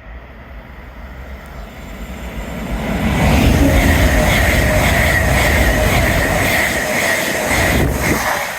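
Freight train's wagons rumbling past on the rails, growing louder about three seconds in and dropping away near the end.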